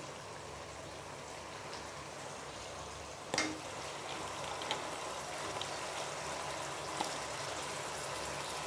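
Baby potatoes and masala frying in oil in a pot, a soft steady sizzle, with one sharp knock about three and a half seconds in and a few faint ticks.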